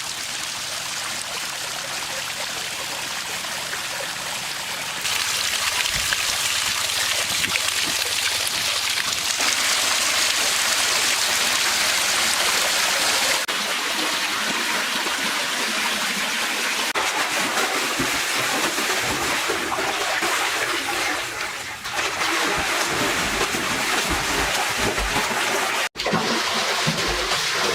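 Water pouring and splashing steadily, as from a small artificial waterfall into a pool. It gets louder about five seconds in, shifts in level abruptly a few times, and breaks off for an instant near the end.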